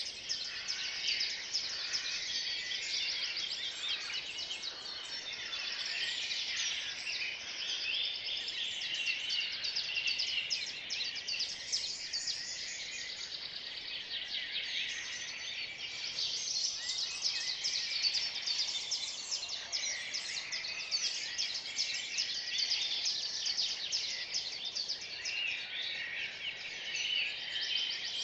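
Early-morning chorus of many songbirds singing at once: a dense, unbroken tangle of high chirps, trills and short song phrases.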